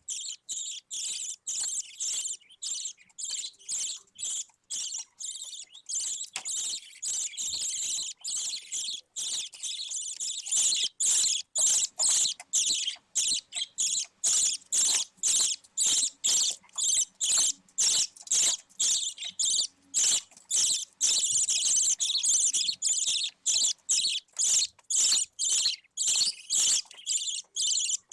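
Budgie chick calling with rapid, high-pitched cheeps, about two a second, which grow louder about ten seconds in.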